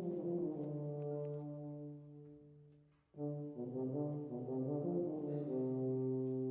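Wind band with prominent brass playing a pasodoble in sustained low chords. The sound dies away to a brief silence about three seconds in, then the band comes back in with long held notes.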